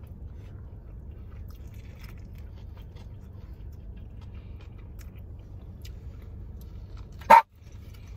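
Quiet chewing and mouth sounds of people eating sandwiches, over a steady low rumble. A single short, loud sound comes about seven seconds in.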